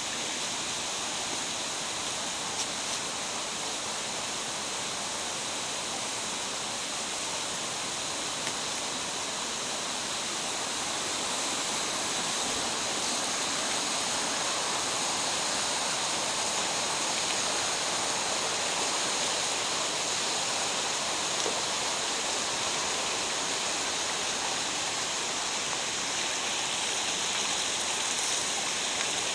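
Mountain gorge stream rushing steadily, growing a little louder about ten seconds in.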